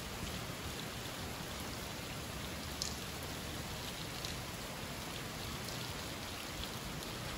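Summer rain falling steadily, with a few sharper drops ticking out above the even hiss.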